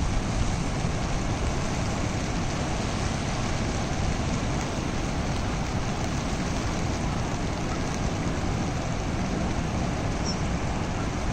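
Rushing water: a steady, even noise without breaks.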